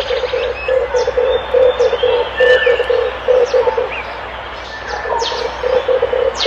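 Red turtle dove cooing: a rapid string of short low coos, about three a second, pausing about four seconds in and starting again near the end. It is a lure-call recording, with short high chirps of other small birds in the background.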